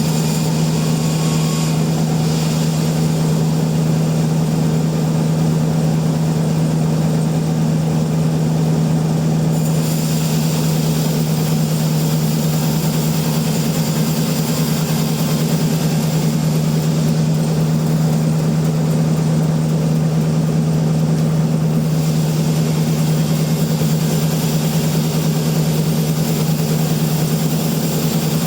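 Sawmill machinery running with a steady, unbroken hum; the higher hiss rises and falls twice.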